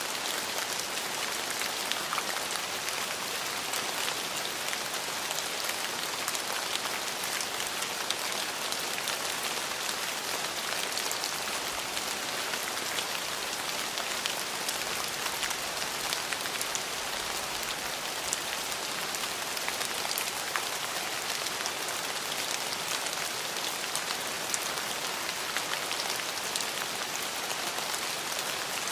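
Steady rain falling on a surface, a constant hiss dotted with many separate drop ticks; no thunder.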